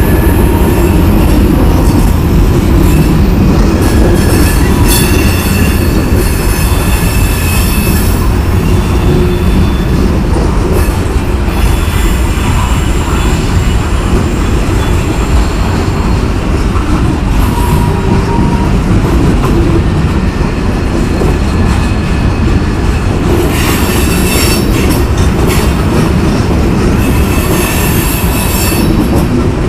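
Freight train of open-top hopper cars rolling past at close range: a steady loud rumble of steel wheels on the rails. High-pitched wheel squeal comes and goes over it, strongest a few seconds in and again near the end.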